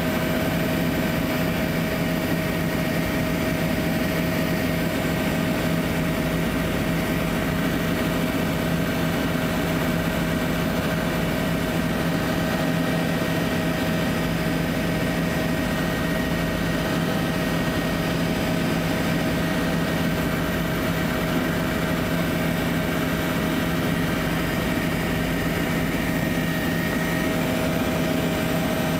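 Helicopter in steady flight heard from inside the cabin: a constant drone of engine and rotor with steady humming tones, unchanging in pitch and level.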